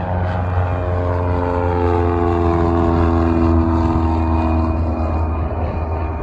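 Propeller airplane's engine passing by, its pitch falling steadily as it goes past, over a steady low drone; loudest about midway.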